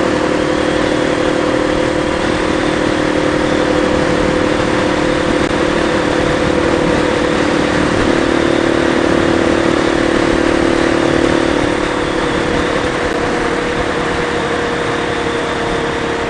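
Motorcycle engine running at steady cruising speed, a constant drone under wind and road noise. The engine note eases slightly about twelve seconds in.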